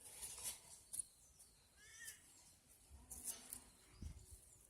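Near silence with faint scattered rustles and clicks, and one brief, faint, high chirp about two seconds in.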